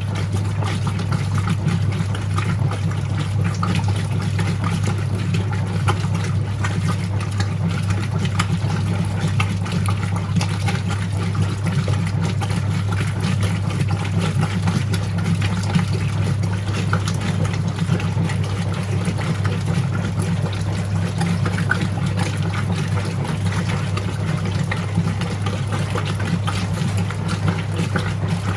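Whirlpool 3RLSQ8033SWD top-loading washing machine agitating on its delicate cycle: a steady motor hum with water sloshing in the tub.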